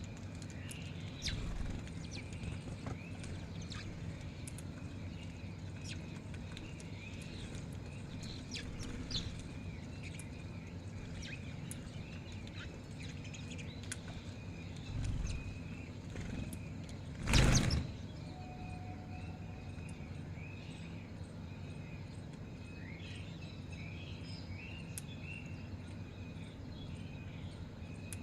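Birds feeding together: repeated short chirps and tweets over a steady low hum, with scattered small clicks. There is one loud, brief burst of noise about two-thirds of the way through.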